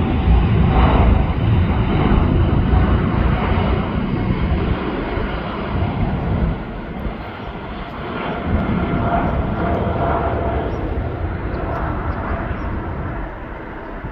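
Jet roar of a Boeing 747-400 freighter's four engines at takeoff thrust, a loud, steady rumble with a faint whine in it, slowly easing as the aircraft climbs away.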